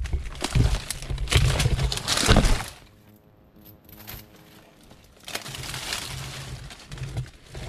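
Twigs and dry leaf litter crackling and snapping as someone pushes through forest undergrowth, loud for the first two and a half seconds. After that comes a quieter stretch and then softer rustling.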